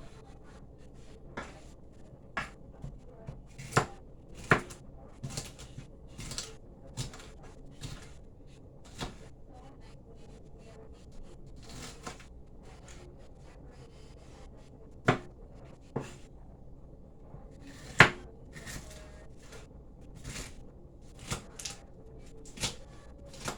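Knife cutting a sweet pepper on a chopping board: irregular taps and knocks of the blade hitting the board, with two sharper knocks about 15 and 18 seconds in.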